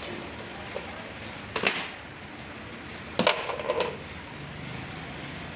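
Two sharp knocks about a second and a half apart, the second followed by a short clatter, over steady background noise.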